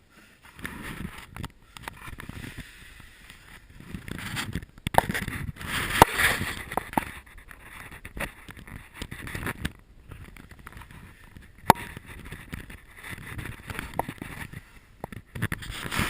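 Irregular scraping and rustling of a person crawling through a tight rock passage, clothing and body rubbing on stone, with a few sharp knocks; the loudest is about six seconds in, and another comes near twelve seconds.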